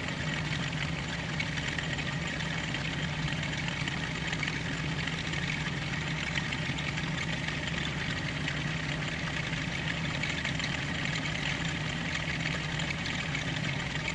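Metal lathe running steadily in back gear, a constant hum from the motor and gear train while a hole is being reamed.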